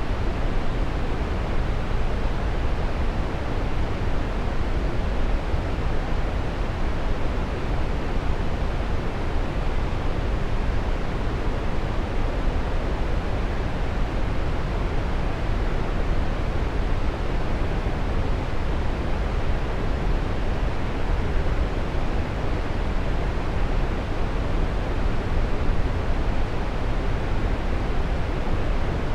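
Waterfall: a steady rush of falling water with no breaks or changes, heaviest in the low rumble.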